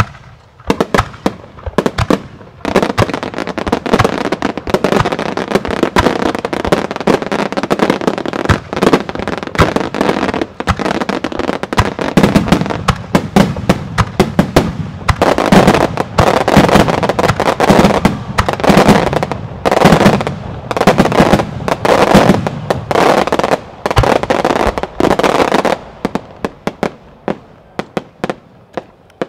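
Starmine fireworks barrage: a rapid, dense volley of shell launches and sharp bursts with crackling. It builds about two seconds in and thins out near the end.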